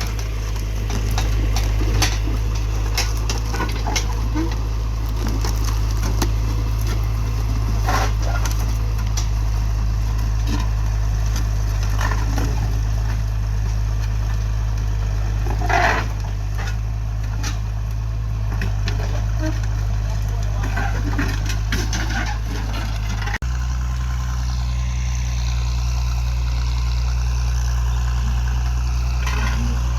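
Tractor engine running steadily in the field as it tills the soil, with scattered knocks and crackles over the drone. About 23 seconds in, the engine's pitch changes abruptly.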